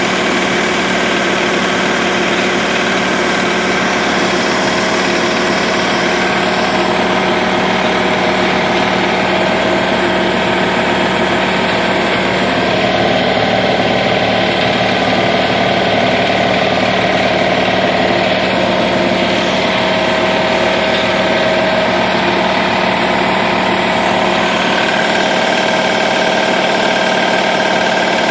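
Air compressor running steadily under continuous duty, its electric motor and piston pump keeping up a constant hum and clatter.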